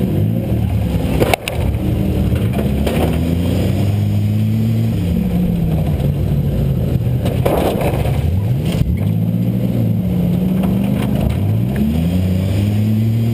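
A demolition derby car's V6 engine, heard from inside the cabin, revving up and down over and over, with a sharp crash of an impact about a second in and a few more knocks around the middle.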